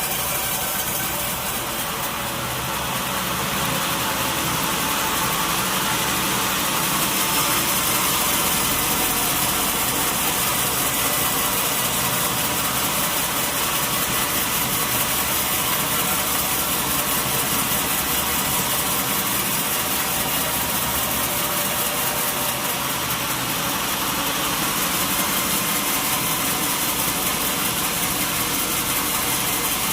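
Sawmill machinery running steadily, an engine-driven saw rig with a constant drone.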